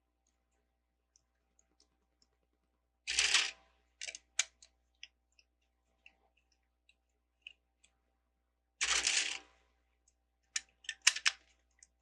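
Plastic LEGO bricks clicking and clattering as pieces are handled and fitted together, in scattered small clicks with two louder half-second clatters, about three seconds in and near nine seconds, and a quick run of clicks near the end.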